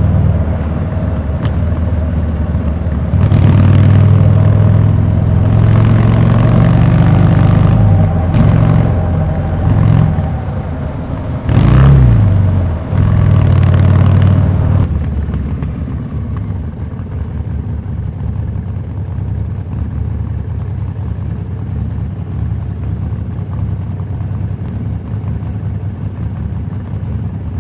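Harley-Davidson Street 750's liquid-cooled V-twin through a Vance & Hines slip-on exhaust, running under throttle with the pitch rising and falling for about fifteen seconds, loudest about twelve seconds in. It then drops to a quieter, steady running note.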